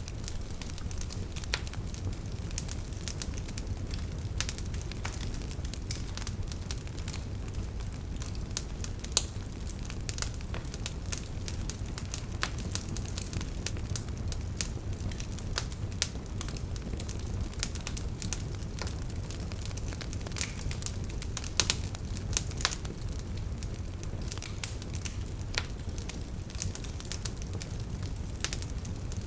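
Wood campfire burning, crackling with frequent irregular snaps and pops over a steady low rumble of the flames.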